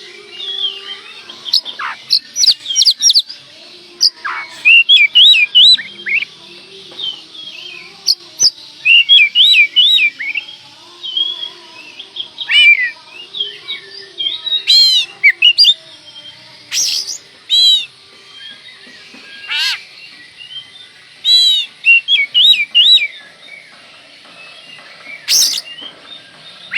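Oriental magpie-robin (kacer) in full song: loud bursts of rapid whistled phrases that sweep sharply up and down in pitch, mixed with quick chattering notes, with short pauses between phrases.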